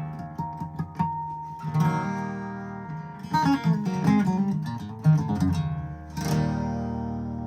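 Gibson acoustic guitar played solo: picked notes and strummed chords, with a last chord struck about six seconds in that rings out.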